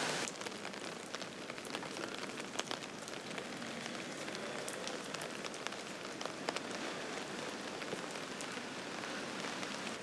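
Rain falling steadily, with the sharp ticks of single drops striking close by.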